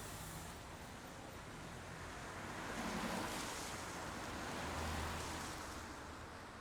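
Rain falling, a steady hiss that swells louder twice, about three and five seconds in.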